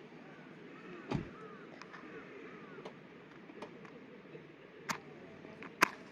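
Wood fire crackling, with a few sharp pops, the loudest near the end. Faint short bird chirps can be heard behind it.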